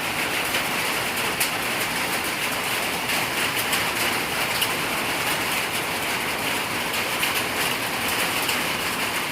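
Heavy rain falling steadily in a thunderstorm: a constant hiss of rain on surfaces, with scattered ticks of drops.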